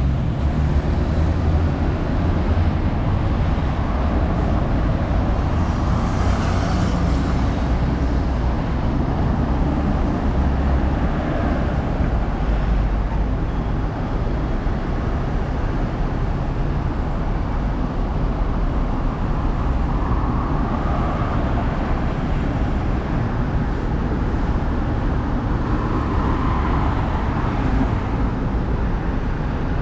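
Steady road and traffic noise with a continuous low rumble and no distinct events, as heard while riding a bicycle along a road.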